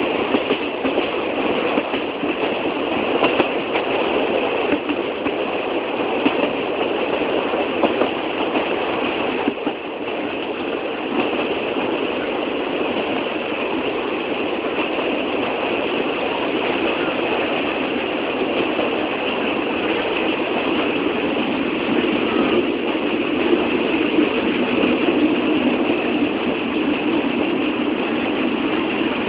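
Old passenger train running on the rails: a steady rumble and rattle with light, irregular wheel clatter.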